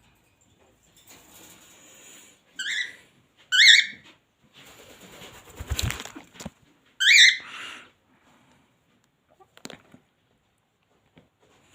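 Pet bird calling: three loud, short calls, about three, four and seven seconds in, with rustling noise between them.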